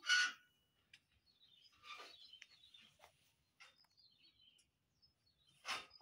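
Small birds chirping faintly in the background, with a short sharp noise right at the start and another near the end.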